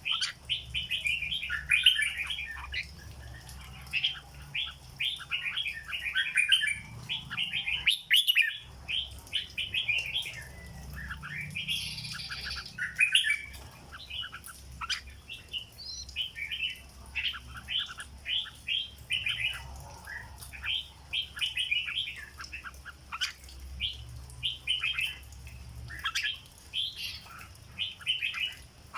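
Red-whiskered bulbul singing: rapid runs of short, bright chirping phrases, almost without a break.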